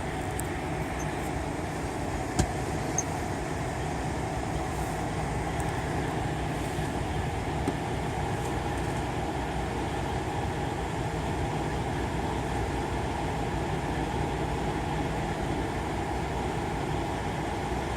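Steady low rumble of idling truck engines, with a sharp click about two and a half seconds in.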